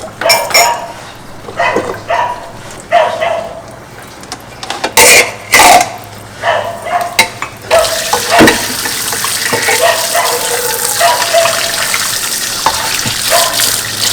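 Dishes and utensils clattering and clinking in a kitchen sink, with two loud knocks about five seconds in. About eight seconds in, a tap comes on and water runs steadily over the dishes as they are rinsed.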